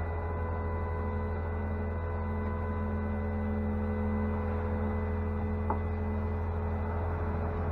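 A steady low hum with several faint steady higher tones over it, and one short click about three quarters of the way through.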